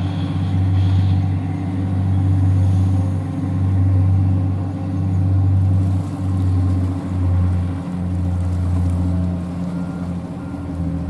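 Engines of the 29.5 m sea-cleaning and oil-recovery vessel Mizuki running while it berths: a loud, steady low drone that swells and eases every couple of seconds.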